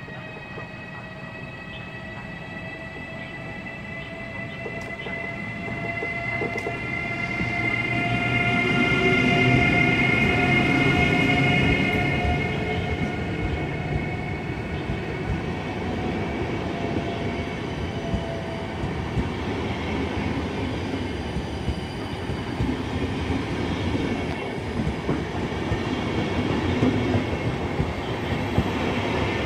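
Siemens EuroSprinter electric locomotive (PKP Intercity EU44 Husarz) running past with its passenger coaches: a whine of several high tones slowly rising in pitch, loudest about ten seconds in as the locomotive goes by. Then the steady rumble and light clatter of the coaches rolling past.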